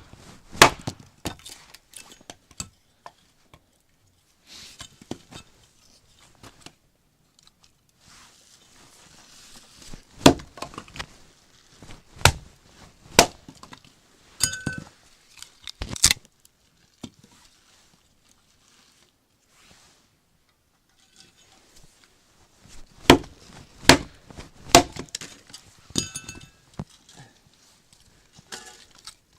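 Firewood being chopped at a campsite: sharp, separate wooden chops and cracks come in irregular groups with quiet pauses between them.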